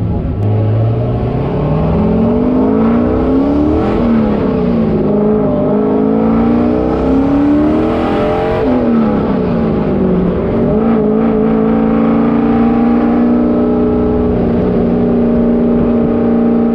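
Turbocharged LS V8 engine pulling through the gears: it rises in pitch, drops at a shift about four seconds in, rises again, drops at a second shift near the middle, then holds a steady cruise. The clutch behind it is slipping and burning.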